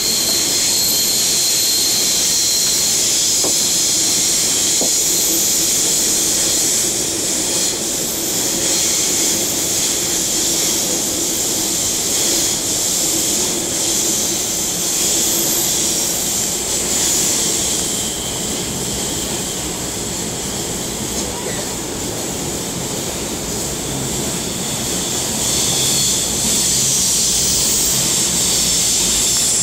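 M-set Millennium electric multiple-unit train running, heard from inside its front car: a loud, steady hiss over a low hum that eases a little in the middle, as the train runs into a tunnel.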